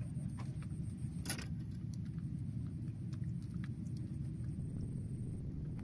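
A steady low rumble with faint, scattered light clicks and one short, sharp high sound about a second in.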